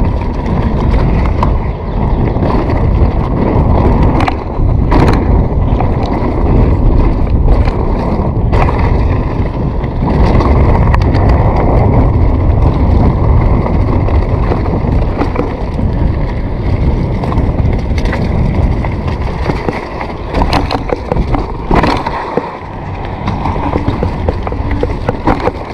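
Continuous rumble of wheels rolling over a rough surface with wind buffeting the microphone, broken by scattered sharp knocks and rattles.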